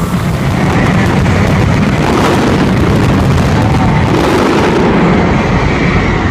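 Dense barrage of fireworks going off, many bangs running together into one loud, continuous sound.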